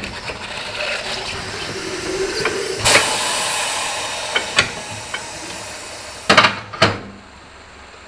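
Compressed air hissing, as from an air hose inflating a tractor tire's inner tube, with a few sharp metal knocks.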